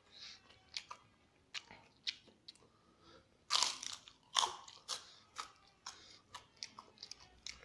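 Close-up eating sounds of telur geprek with rice: loud crunchy bites about three and a half seconds in and again near four and a half, with wet chewing and small mouth clicks between.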